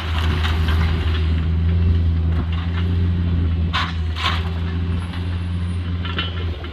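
Heavy demolition machine's engine running steadily, with two short sharp sounds about four seconds in.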